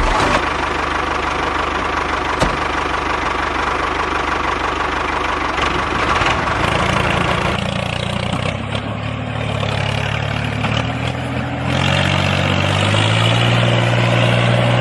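A motor or engine running steadily. About halfway through a low hum comes in, and it shifts in pitch and grows louder near the end.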